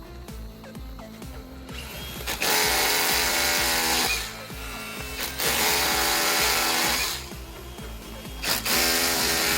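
An electric power tool runs in three bursts of roughly two seconds each, with a motor whine under the noise, over background music.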